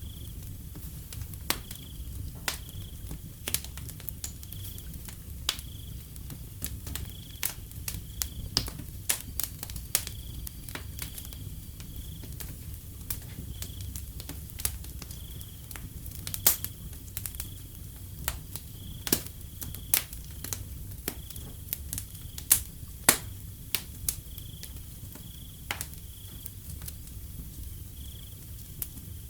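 Wood fire crackling, with irregular sharp pops over a low steady rumble, while a cricket chirps in short high notes about once a second.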